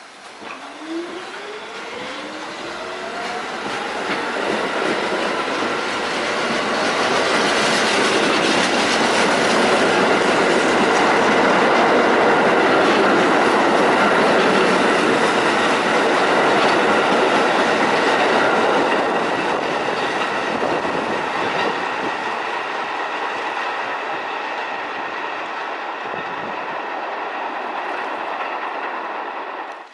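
New York City subway train running past on the line, with a motor whine rising in pitch over the first few seconds. The wheel and car noise builds to a loud steady rumble about halfway through, then slowly fades.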